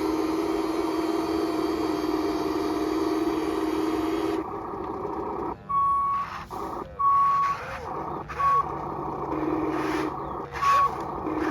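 Small electric motor and gearbox of a radio-controlled toy construction vehicle whining steadily, stopping about four seconds in. Then come a few short electronic beeps at uneven intervals, mixed with brief louder bursts of noise.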